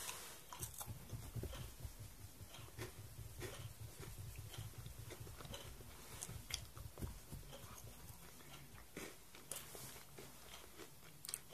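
A person chewing and biting a snack close to the microphone: faint, irregular small crunches and mouth clicks.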